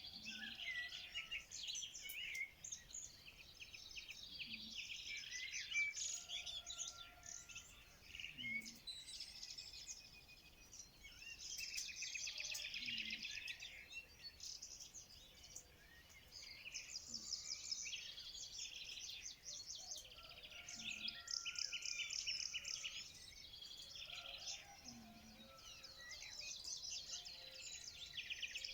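Several songbirds singing at once: a dense, overlapping chorus of rapid trills and chirps, with faint short low notes repeating every few seconds beneath it.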